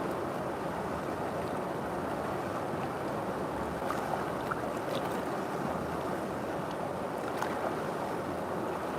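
River water flowing steadily, an even rush with faint small splashes now and then.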